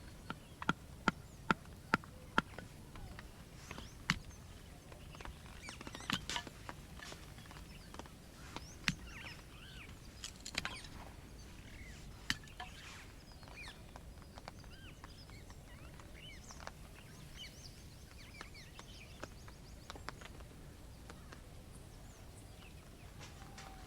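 Campfire crackling, with a quick run of sharp pops in the first few seconds and a few more later. Birds chirp and sing through most of it, over a quiet outdoor background.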